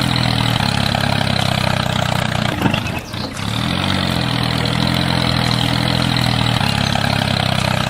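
Tractor engine running steadily at idle, with a brief dip about three seconds in.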